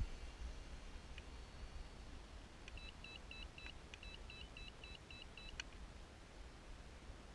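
Faint quick electronic beeps from a radio-control plane's electronics during setup: two runs of short high beeps, about ten in all, a few seconds in, with a few clicks.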